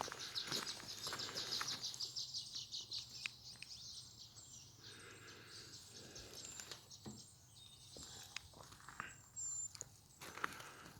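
Outdoor ambience with birds chirping: a fast, high trill of repeated chirps for the first few seconds, then scattered light clicks and knocks.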